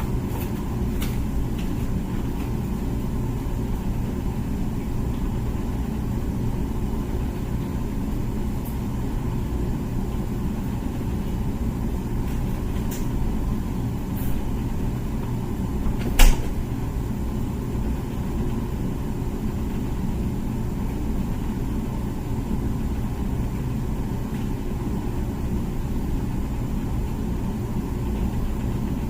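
Comfee dishwasher running mid-cycle: a steady low hum and rumble, with a single sharp click about halfway through.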